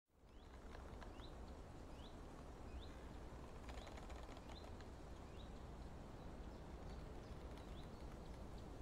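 Faint outdoor ambience: a bird gives a short rising chirp about every second over a low steady rumble, with a few faint clicks.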